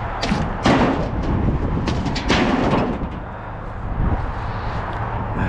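A handful of knocks and clatters in the first three seconds, some in quick succession, over a steady low rumble.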